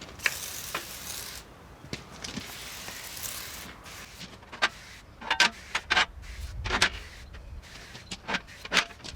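Two hissing sprays, degreaser going onto the parts being cleaned, followed by a run of sharp clicks and knocks as the parts are handled.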